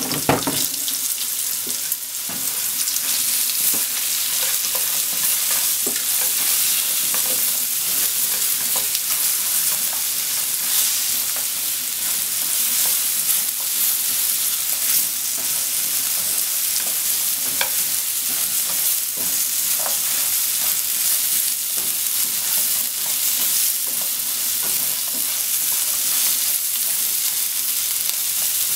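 Shrimp and sliced potatoes sizzling steadily in hot oil in a frying pan as they are stir-fried, with chopsticks now and then tapping and scraping against the pan.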